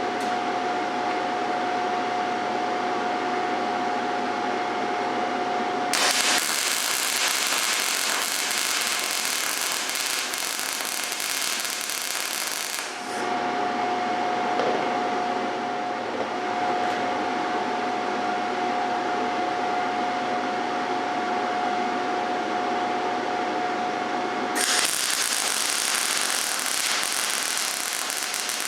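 Gas-shielded MIG welding arc crackling and hissing in two runs: one starts about six seconds in and lasts about seven seconds, the second starts near the end. Between the runs a steady hum with a constant whine runs on.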